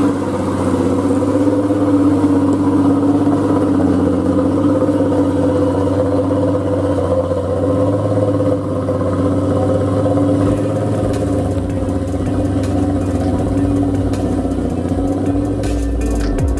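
Old truck's diesel engine running steadily, holding an even note throughout. Low thumps and rapid clicking join in near the end.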